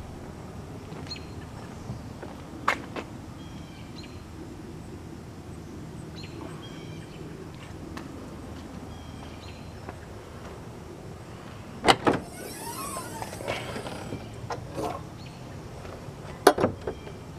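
A bird chirping a short repeated call every couple of seconds over a steady low hum. A few sharp knocks cut in, the loudest about twelve seconds in and near the end. After the first loud knock comes a brief tangle of rising and falling whistles.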